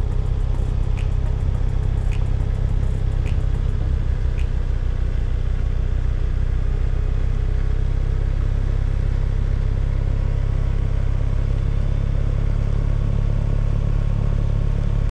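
A motor vehicle's engine running steadily with a deep, even rumble, and a light tick about once a second for the first few seconds.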